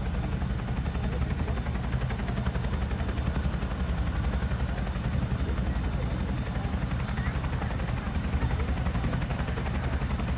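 North American OV-10 Bronco's twin turboprop engines running as it taxis, with a steady, fast propeller beat.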